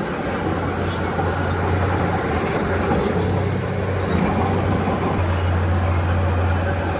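Heavy diesel earthmoving machinery running steadily, a constant low engine hum with scattered short high squeaks over it.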